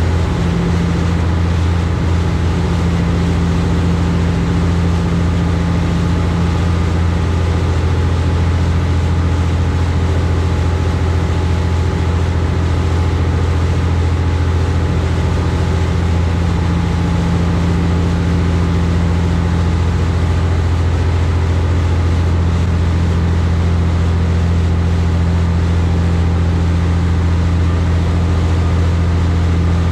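High-speed passenger boat's engines running steadily at cruising speed, a constant low drone with the rush of water and hull noise.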